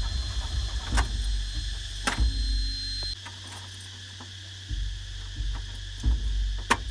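JCB JS220 excavator's Diesel Max 448 diesel engine during a start attempt: a low rumble with a few clicks and a steady high warning beep. The beep and most of the rumble cut off about three seconds in, and the rumble comes back near five seconds. This engine starts and then shuts itself down, which the mechanic puts down to air in the fuel system.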